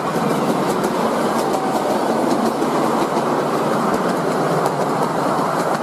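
Train running along the track: a steady loud rumble with faint clicks from the rails.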